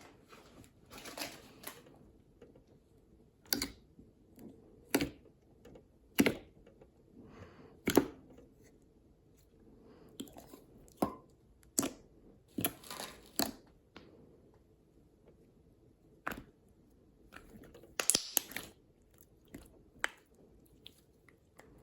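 Slime being squeezed and poked by hand: irregular sticky clicks and pops, some coming in quick clusters, with quiet squishing between them.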